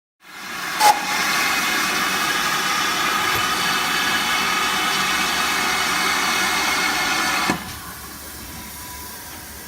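Steam locomotive venting steam: a loud, steady hiss with a sharp click about a second in. About seven and a half seconds in it drops suddenly to a quieter hiss.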